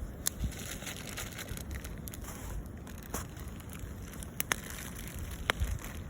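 Wood campfire crackling, with a few sharp pops over a low steady rumble.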